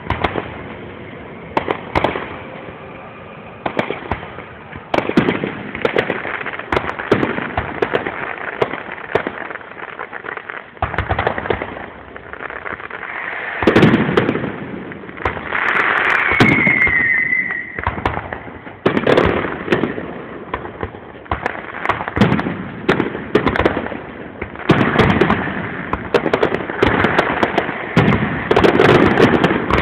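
Fireworks display: shells bursting one after another with crackling, the bangs thickening into dense volleys in the second half, and a short falling whistle about halfway through.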